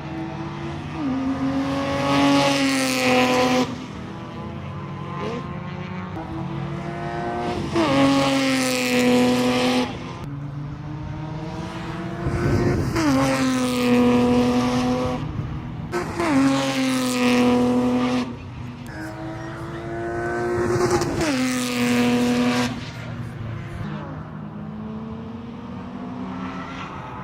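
BMW E30 race car's M52 straight-six engine revving hard, its pitch climbing for a couple of seconds and then dropping sharply, five times over, with lower, steadier running between.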